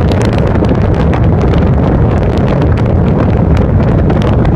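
Strong wind buffeting the microphone: a loud, steady rumble with frequent crackles.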